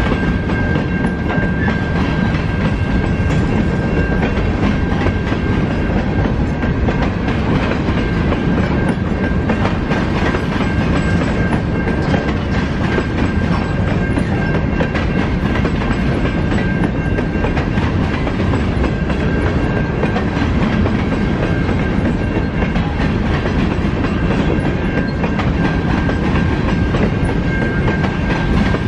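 Train rolling past at close range, its wheels clattering steadily over the rails, with a thin steady high tone running under the rumble.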